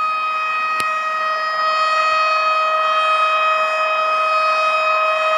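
Tornado warning siren sounding one steady, unwavering tone, with a single click about a second in.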